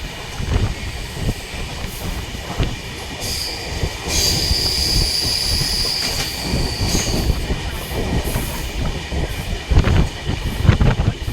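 Train running on the rails with a steady rumble and wheel clatter. A high, steady wheel squeal sounds from about three to seven seconds in, and there are a few louder knocks near the end.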